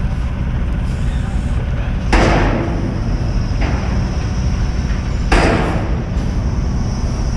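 Heavy truck diesel engine running steadily with a low rumble, broken twice, about three seconds apart, by a sudden loud noise that dies away within about half a second.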